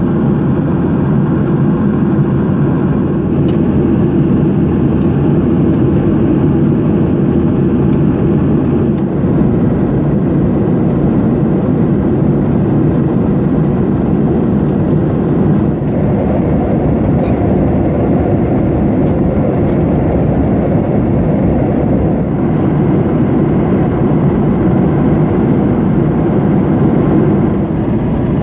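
Steady engine and airflow noise inside the cabin of a Boeing 737-800 in cruise, from its CFM56-7B turbofans, heavy in the low end, with slight shifts in tone a few times.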